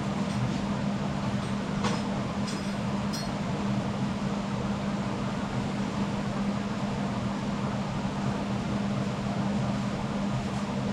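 Steady machine hum with a constant low drone, like a fan or a small motor running, with a few faint light clicks about two to three seconds in.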